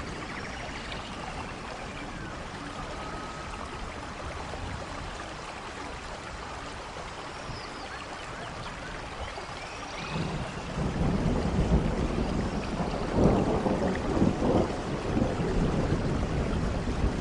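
Steady rain, then a rolling thunder rumble that builds about ten seconds in and peaks in loud crackling claps a few seconds later.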